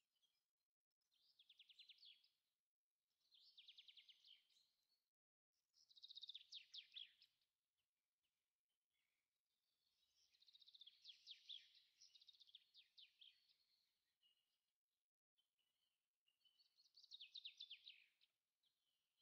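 Faint birdsong: five short phrases of rapid trilled notes with pauses between them.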